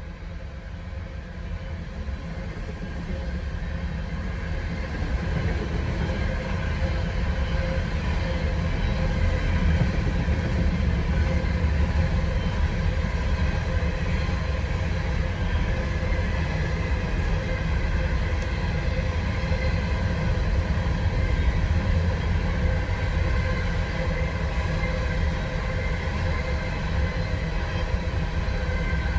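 Empty BNSF coal train passing fast: a steady low rumble of wheels on rail that grows louder over the first several seconds, then holds.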